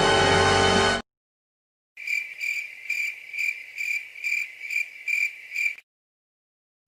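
Cricket chirping at a steady high pitch, about two chirps a second, starting about two seconds in and stopping after about four seconds. Before it, music cuts off abruptly about a second in.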